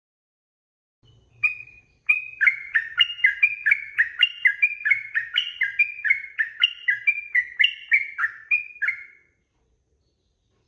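Yellow-vented bulbul (trucukan) singing: a single note, then a fast run of about two dozen short notes, roughly three to four a second, alternating between a higher and a lower pitch, that stops shortly before the end.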